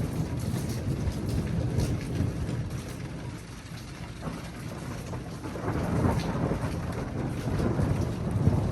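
Thunder rumbling low and long over steady rain, easing slightly midway and swelling again in the second half, with scattered ticks of raindrops.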